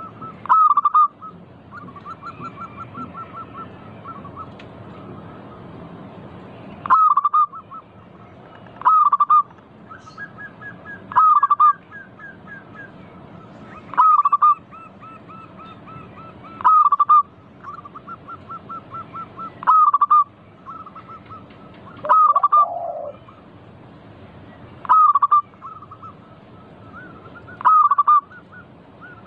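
Zebra doves (local perkutut) calling: about ten loud, short cooing phrases every two to three seconds, with quieter runs of rapid repeated notes between them.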